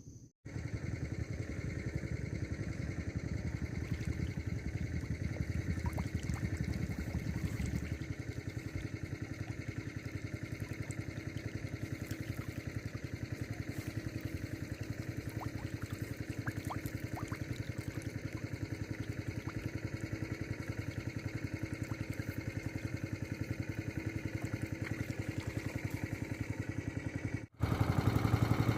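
A small engine running steadily, a little quieter in its low end after about eight seconds.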